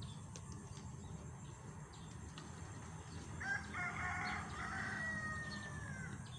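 A rooster crowing once, starting about three and a half seconds in: a long call that ends on a held note falling slightly in pitch. A steady low rumble runs underneath.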